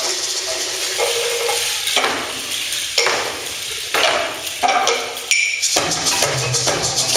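Percussion music: rattles over sharp strikes about once a second, quickening into a faster beat with a low sustained tone about six seconds in.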